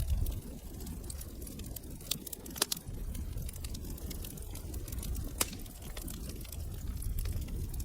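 Wood fire burning in a fireplace, crackling with scattered sharp pops over a low rumble of the flames; two pops stand out, one about two and a half seconds in and another about five and a half seconds in.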